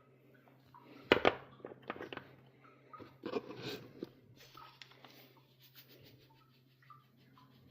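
A utensil stirring half-cooked scrambled eggs in a bowl, scraping and knocking against the bowl. The sharpest clacks come about a second in and again around three and a half seconds, with lighter scraping after.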